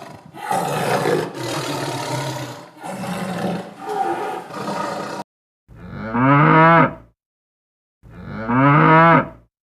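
Cow mooing: two long moos about two seconds apart, each rising then bending in pitch, loud and clean against silence. Before them comes a noisier stretch of low animal calls over background noise.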